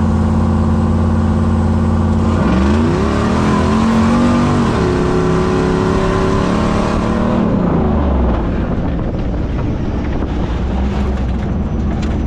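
A vehicle's engine idling steadily, then revved up about two seconds in, held at higher revs for several seconds, and dropped back to idle near eight seconds.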